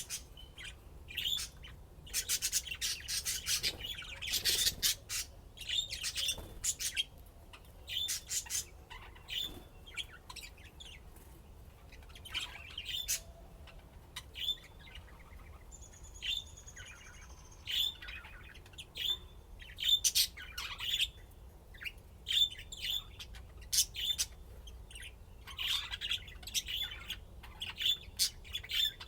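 Pet budgerigars chirping and chattering in many quick, short calls, busiest in the first few seconds, with a buzzy warble about sixteen seconds in.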